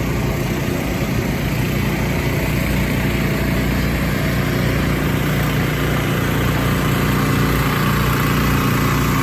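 A small engine running steadily at idle, a continuous low hum.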